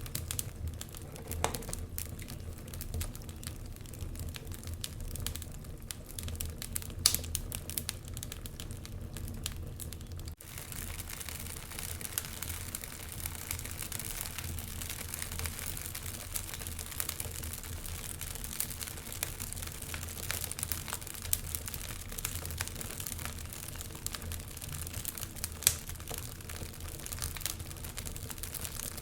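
Wood fire burning in a fireplace, crackling continuously over a low rumble, with a louder pop about seven seconds in and another near the end.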